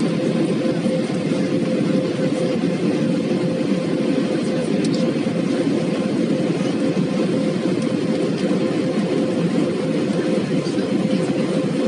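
Airbus A320 jet engines and airflow, a steady loud drone heard inside the passenger cabin, with a constant hum tone over it.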